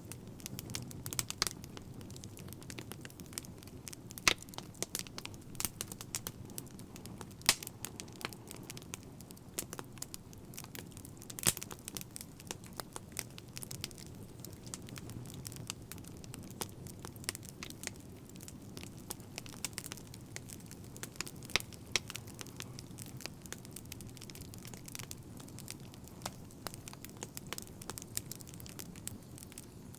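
Wood fire crackling, with a steady low rush of burning and irregular sharp pops and snaps, a few of them much louder than the rest.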